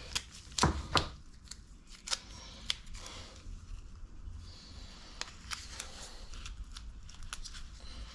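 Masking tape being pulled off the roll, torn and pressed around nuts and studs on an engine to mask them from paint: irregular short rips and snaps.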